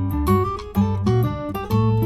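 Background music led by an acoustic guitar, plucked and strummed notes over a bass line at a steady pace.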